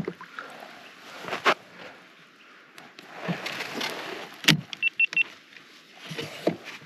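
Spinning fishing reel being wound in while playing a hooked fish, with a couple of sharp knocks and a quick run of four short high beeps about five seconds in.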